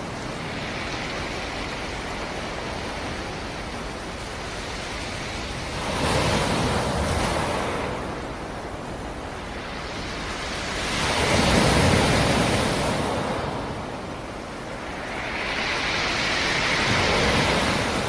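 Sea surf: waves breaking on the shore about every five seconds, each one a swell of rushing noise that rises and falls away over a steady wash of water.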